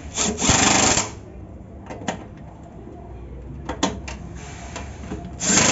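Power drill-driver running in two short bursts, each under a second, near the start and near the end, with a few sharp clicks of metal parts between: screws being run out while a washing machine is taken apart.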